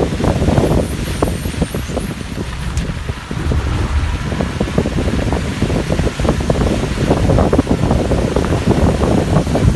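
KSRTC bus on the move: a steady low rumble of engine and road, with many small knocks and rattles, and wind buffeting the microphone.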